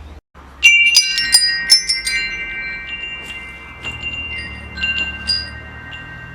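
Metal wind chimes struck in a quick flurry about half a second in, after a brief cut to silence, their tones ringing on and overlapping. A few lighter strikes follow about four to five seconds in.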